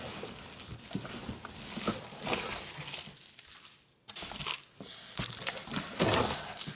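Packing material in a cardboard shipping box rustling and crinkling irregularly as hands dig through it, with louder handling noises about two seconds in and near the end.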